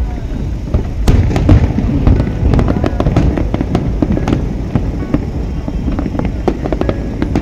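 Aerial fireworks display: many shells bursting in quick succession, a dense run of bangs and crackles over a steady low rumble, loudest about a second in.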